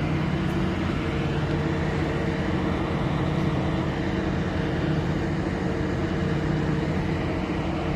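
Towboat's diesel engines running steadily, a low, even drone.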